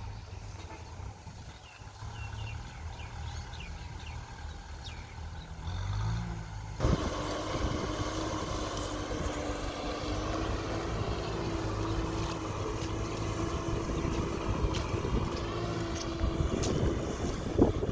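Kubota tractor's diesel engine running steadily under plowing load. About seven seconds in the sound changes abruptly to a louder, rougher engine sound with a steady whine.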